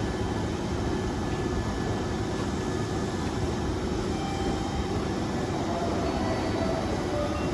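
Hanshin Railway electric train running, a steady even noise that is strongest in the low end, with a few faint thin tones above it.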